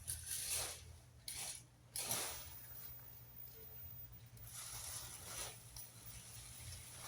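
Four short rustling scrapes, the longest about five seconds in, over a low steady rumble.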